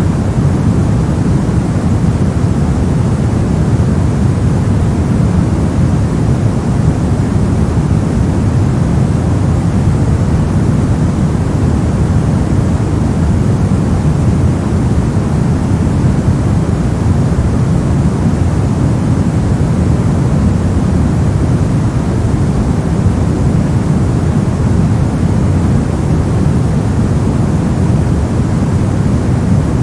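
Continuous white noise: an even, unchanging rushing hiss, heavier in the low end than in the highs.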